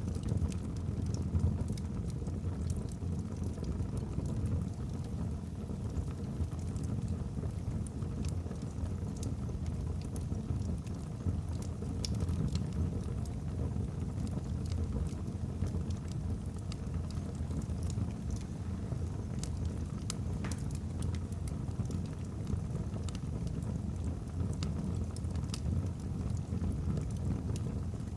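Log fire burning in a fireplace: a steady low rumble of the flames with scattered sharp crackles and pops from the logs.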